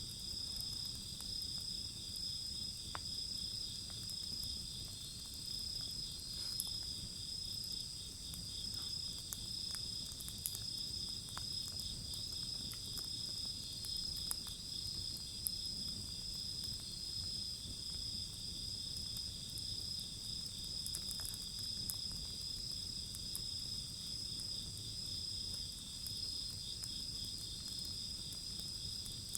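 A steady chorus of insects chirping in high, pulsing bands, over a burning wood fire that gives a low steady rustle and scattered small crackles and pops.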